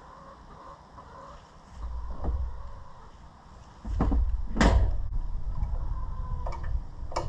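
Wrench and loose metal parts clinking and knocking during tractor disassembly: several scattered knocks, the loudest about four and a half seconds in, over a low rumble that comes in about two seconds in and again near four seconds.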